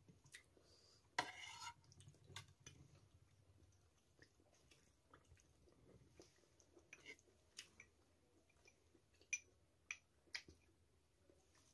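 Faint chewing and mouth sounds of people eating steamed vegetable momos, with scattered small clicks of spoons on glass sauce bowls and a brief louder sound about a second in.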